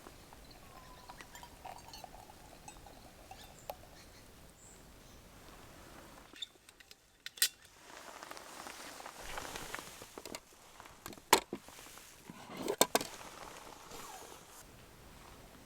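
A few sharp clicks and clinks of small hard objects being handled, with faint rustling between them; the loudest come about halfway through and twice more near the end.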